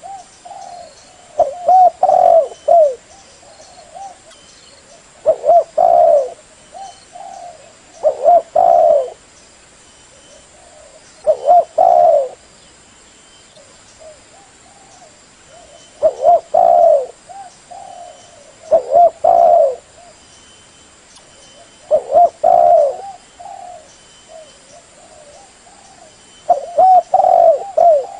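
Female spotted dove cooing: short clusters of low coos, one cluster every three to four seconds, about eight in all. It is the call used to excite male doves toward a decoy or trap.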